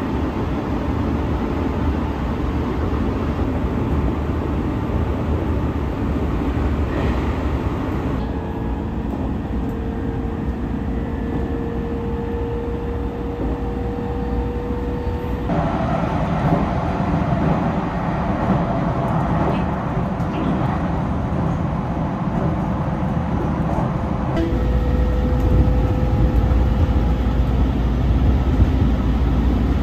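Local electric commuter train heard from inside the carriage while running, a steady rumble of wheels on rails in several joined takes. In the middle it carries a faint steady tone that slowly rises in pitch, and the rumble grows deeper and louder in the last few seconds.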